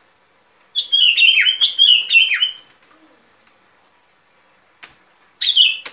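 A bulbul (bông lau) calling: a quick, bubbly phrase of chirping notes with falling ends, starting about a second in and lasting about two seconds. A shorter burst of the same notes comes near the end. This is a lure call of the kind used to draw the bird in for trapping.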